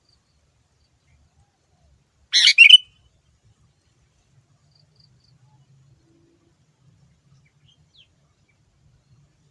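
A sooty-headed bulbul (kutilang) gives one short, loud two-part call phrase about two seconds in.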